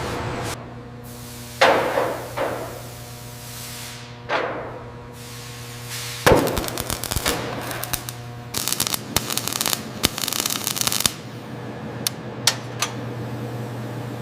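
Several sharp metallic bangs, each with a ringing tail, then a few seconds of rapid crackling and rattling, over a steady low hum.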